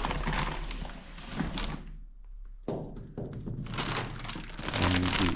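Sunflower seeds being scooped and handled: a grainy rustling and rattling with knocks and a thunk. It breaks off about two seconds in and starts again abruptly.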